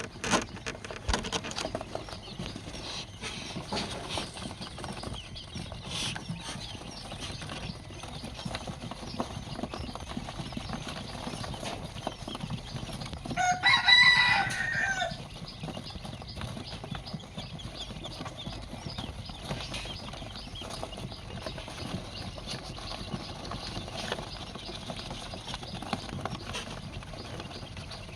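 A rooster crows once, about halfway through, a loud call lasting under two seconds. Behind it runs a steady background of small clicks and rustling.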